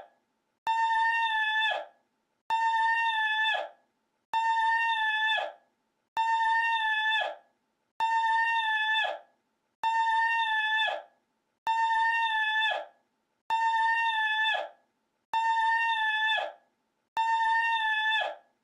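A short high-pitched cry, held at a steady pitch with strong overtones, played on a loop. It sounds about ten times, each call lasting about a second, one every couple of seconds with silence between, each identical to the last.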